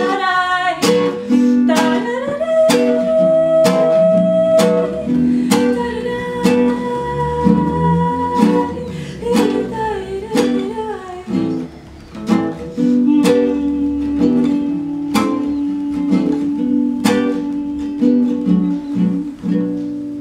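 Live acoustic band playing the instrumental close of a song: strummed guitar under held melody notes, dying away near the end.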